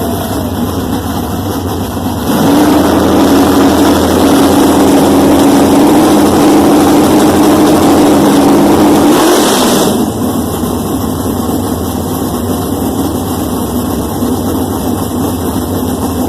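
Race car engine idling, then revved about two seconds in and held at a steady higher speed for about seven seconds before dropping back to idle.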